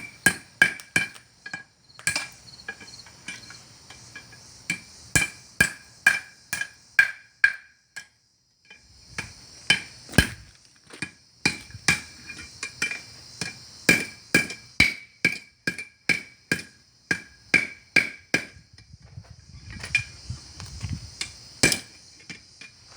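Blacksmith's hammer striking hot iron on an anvil in a steady run of blows, about two to three a second, each with a bright ring from the anvil. The hammering breaks off briefly about eight seconds in, and the blows thin out to a few near the end.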